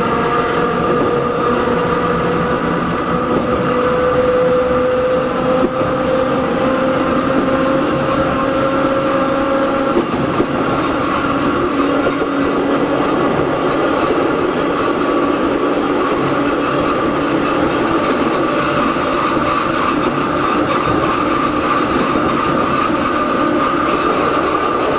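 Hakone Tozan Railway Moha 1 electric car No. 106 running, its nose-suspended traction motors and gears whining under steady wheel-and-rail running noise. The whine rises slowly in pitch over the first ten seconds or so as the car gathers speed, then blends into the steady running sound.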